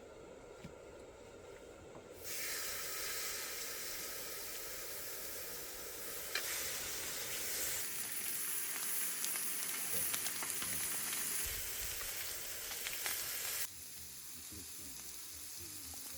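Thick slab of meat sizzling as it fries over high heat, with small crackles and pops. The sizzle gets much louder about two seconds in and drops back suddenly near the end.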